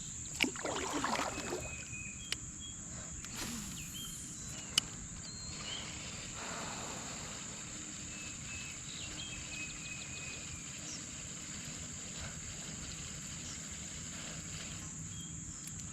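Steady outdoor ambience heard from a kayak on a river, with a constant high hiss. There is a brief splashy rustle about half a second in, a few sharp light clicks, and scattered faint short high chirps.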